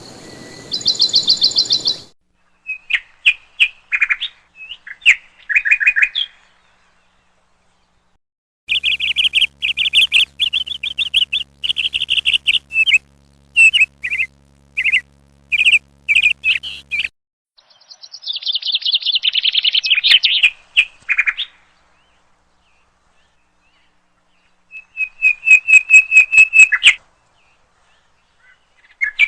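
A songbird singing in separate phrases of rapid high chirps and trills, with dead silent pauses between the phrases. A faint low hum runs under the song for several seconds in the middle.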